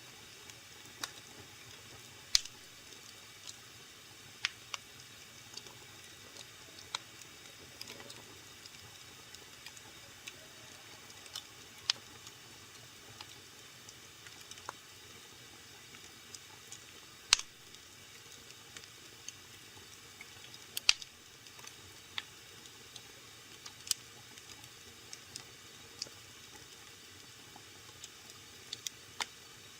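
Wood fire burning in a fireplace: irregular sharp crackles and pops over a low, steady hiss, with a few much louder pops, the loudest about two, seventeen and twenty-one seconds in.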